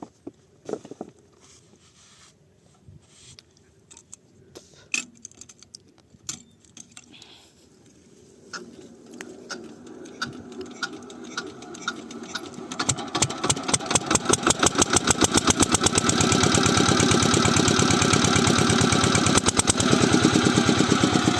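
Diesel water-pump engine starting. A few scattered knocks and clicks come first, then firing beats that start slow, quicken, and settle into a steady, loud running rhythm.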